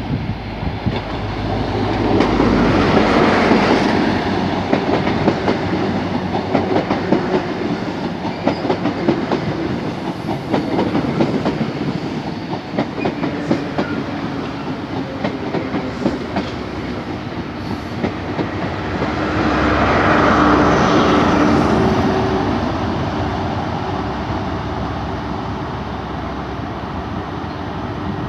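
Train running past on the track, its wheels clicking over rail joints in a long rapid series. The sound swells twice, about three seconds in and again around twenty seconds.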